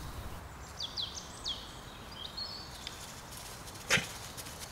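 Small birds chirping in a woodland, a few quick whistled calls falling in pitch in the first half, over a faint steady outdoor background. A single sharp knock about four seconds in is the loudest sound.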